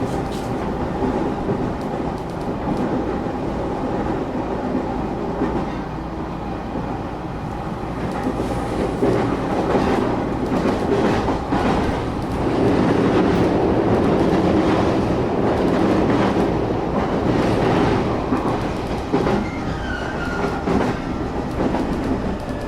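A passenger train running, heard from inside the carriage: a steady rumble with the clickety-clack of wheels over rail joints, louder for several seconds in the middle. Faint high tones appear near the end.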